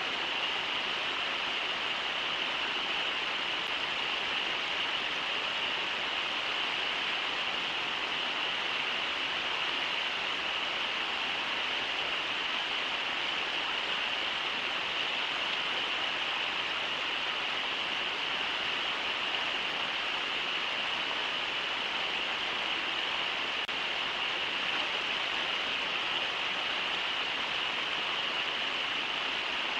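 River water rushing steadily over shallow riffles, an even hiss with no splashes or breaks.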